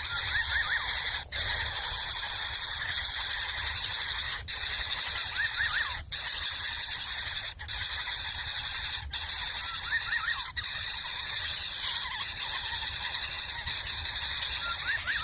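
A steady high-pitched hissing drone that dips briefly about every one and a half seconds, with faint quick rising chirps in threes every four to five seconds.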